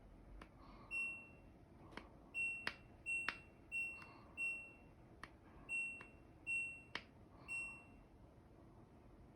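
Control panel of an LG Tromm laundry machine beeping as buttons are pressed: about nine short, high beeps in an uneven rhythm, with sharp clicks from the button presses.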